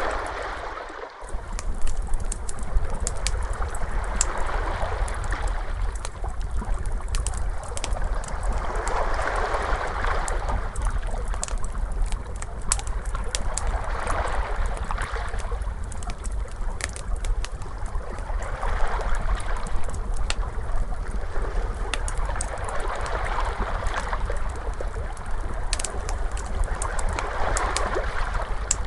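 Ocean waves washing in slow swells every four to five seconds, mixed with the scattered pops and crackles of a fire, over a steady low rumble. The sound dips briefly about a second in.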